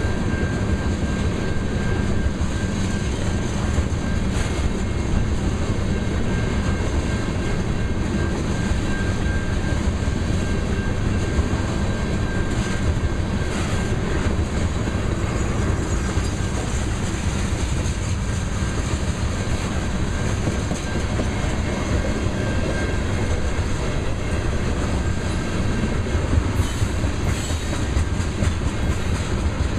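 Loaded freight oil train rolling past at speed: a steady rumble of steel wheels on rail with clickety-clack over the rail joints, and a faint thin squeal in the first half.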